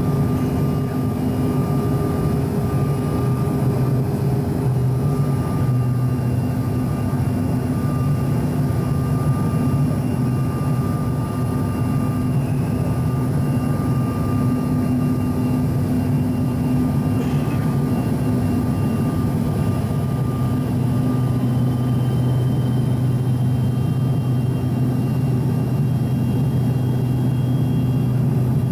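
Steady engine hum and whine of a Bombardier CRJ-900's rear-mounted CF34 jet engines heard from inside the passenger cabin, with a faint high whine that shifts slightly in pitch about two-thirds of the way through.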